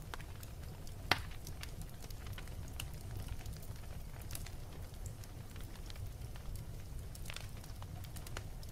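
Log fire crackling, with scattered sharp pops over a steady low rumble; one loud pop about a second in.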